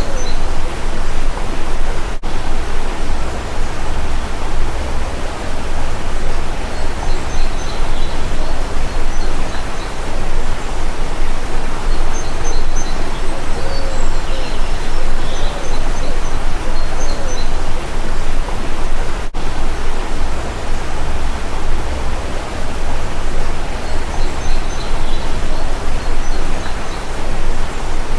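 Steady rushing of a stream, loud and even, with faint high bird chirps coming through now and then.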